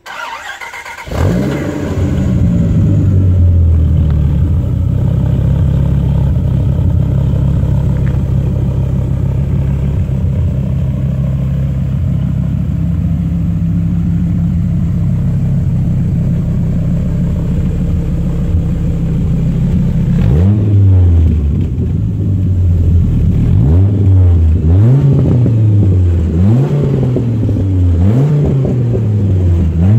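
Dodge Viper RT/10's V10 with side-exit exhaust starting up and settling into a steady idle, then revved repeatedly from about two-thirds through, the revs rising and falling about every second and a half.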